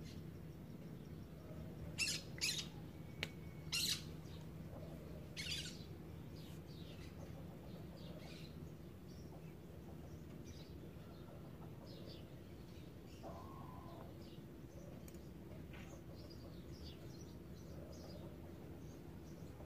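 Small birds chirping: a few sharp, loud chirps about two to six seconds in and fainter chirps throughout, over a steady low hum.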